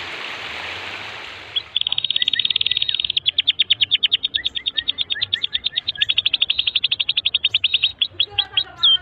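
A domestic canary singing a long, rapid trill of repeated high notes, changing near the end to slower sweeping notes. A hiss-like rush fills the first second and a half before the trill starts.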